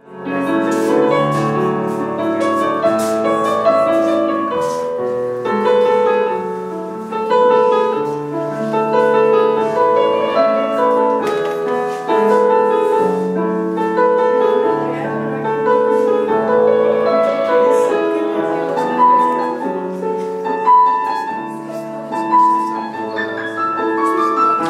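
Piano music: a continuous run of melody notes over chords, starting abruptly out of silence.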